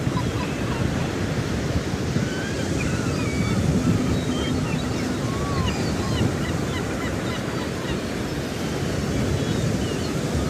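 A flock of budgerigars chattering: many short chirps and warbles overlapping in a dense, steady wash of noise.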